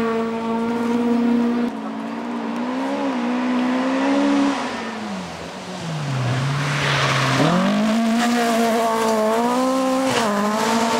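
Toyota Corolla GT rally car engine at high revs. The revs drop about five seconds in and stay low for a couple of seconds, with a brief hiss near seven seconds. They then climb back and hold high.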